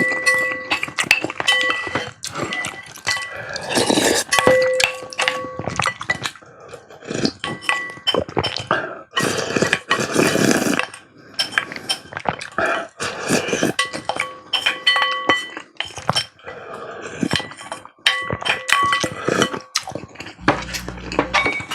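Close-miked eating: metal utensils clinking again and again against a bowl, which rings briefly after each tap, mixed with louder noisy mouth sounds of eating.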